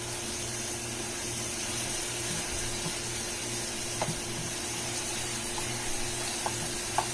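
Seasoned chicken breast chunks sizzling steadily in hot oil in a frying pan, with a few light clicks of a utensil against the pan as the pieces are turned.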